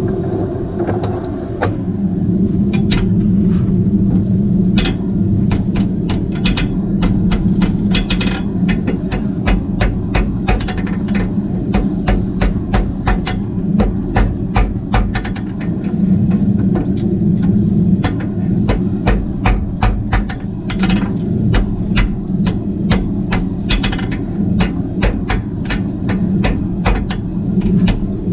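Farrier's hammer striking metal again and again, often in quick runs of blows, over a steady low hum.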